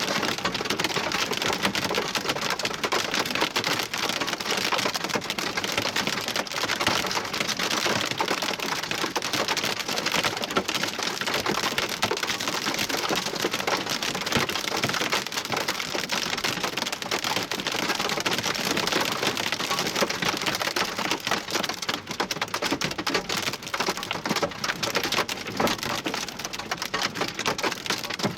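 Wind-driven hail and rain pelting hard and without let-up: a dense, continuous rattle of impacts.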